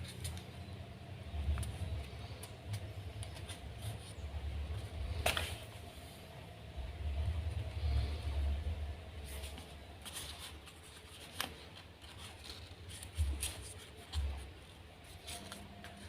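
Paper being handled and folded by hand: scattered crinkles and rustles as the sheet is creased, over an uneven low rumble and a faint steady hum.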